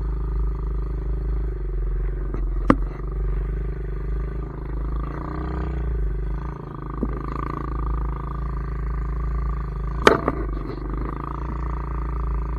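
Pit bike's small single-cylinder engine running steadily at a low, even speed. Sharp knocks come in about three seconds in and again near ten seconds.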